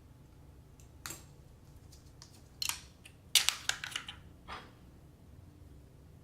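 Faucet parts and their packaging being handled and unpacked: a run of sharp crackles and clicks, densest around the middle.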